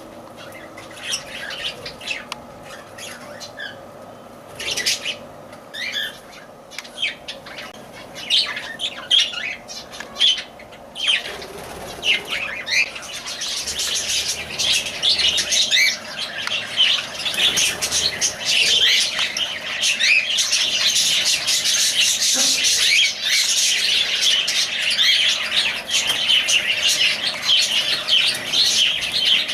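Lovebirds calling: scattered sharp chirps at first, building about halfway through into a dense, continuous high-pitched chattering.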